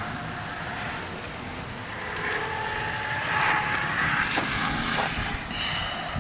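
A vehicle passing by, swelling to its loudest about halfway through and then fading.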